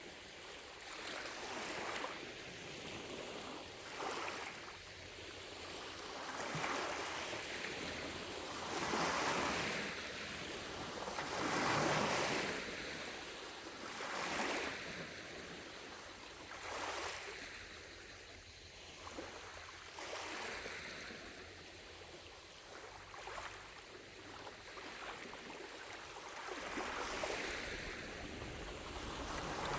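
Small lake waves lapping against the shore, with a soft splash every few seconds that rises and falls in loudness.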